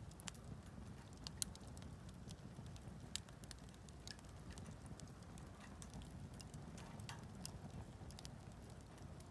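Wood campfire crackling: scattered sharp pops and snaps, the loudest about a second and a half in, over a faint low steady rumble.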